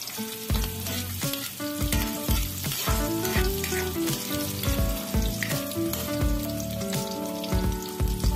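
Minced garlic and sliced red onion sizzling in hot oil in a steel wok, with a metal ladle scraping and knocking against the pan again and again as they are stirred.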